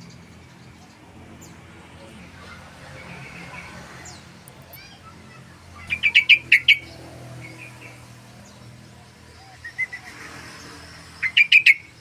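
Yellow-vented bulbul singing: a burst of about five rapid notes about halfway through, a short two-note phrase, then another rapid burst near the end, over a low steady background hum.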